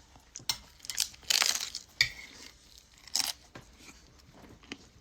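Close-up eating sounds: chewing and biting into food in several short, irregular noisy bursts, the loudest about a second and a half in.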